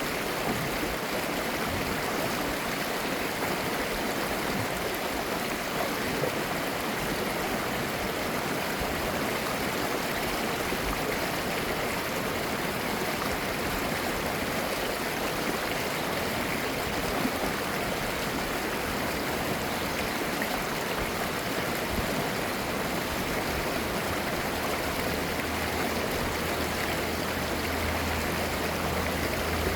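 Mountain valley stream, clear water flowing and babbling in a steady, unbroken rush.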